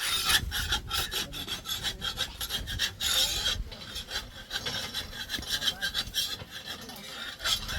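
Rasping, scraping strokes repeated quickly and unevenly, as of something rough being rubbed or scraped back and forth.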